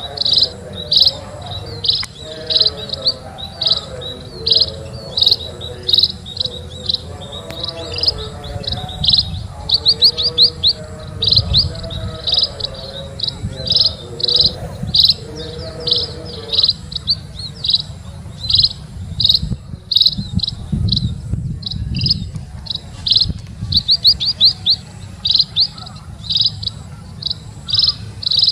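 A small bird chirping over and over, short high chirps coming about one to two a second, now and then in quick rattling runs.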